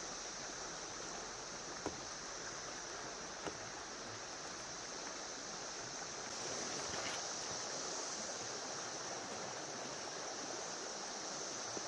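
Creek water running steadily, with a constant high-pitched insect drone over it and a few faint clicks.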